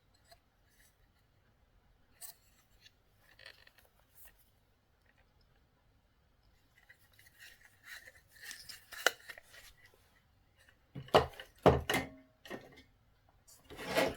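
Handling noises: scattered small clicks, then a few seconds of rustling and scraping, followed by several loud knocks about eleven seconds in and again near the end.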